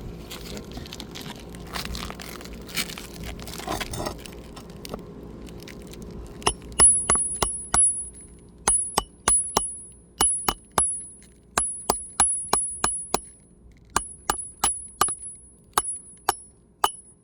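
Scraping and rustling of asphalt shingles being worked loose. About six seconds in, a run of sharp metallic hits with a high ring starts, about two a second: a steel flat pry bar being struck to drive it under a shingle to a roofing nail.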